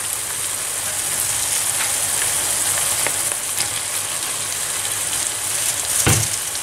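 Ground beef, onion and tomato-pepper paste frying in a pan, a steady sizzle with faint crackles, as shredded white cabbage is dropped on top; a single dull thump about six seconds in.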